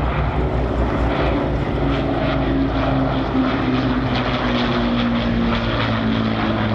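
Piston engines and propellers of vintage Second World War warplanes flying past in a steady, loud drone, its pitch sagging slightly in the middle.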